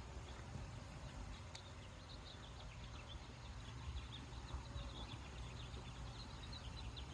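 Small birds chirping faintly in quick, short high notes, starting a couple of seconds in and running on, over a low rumble.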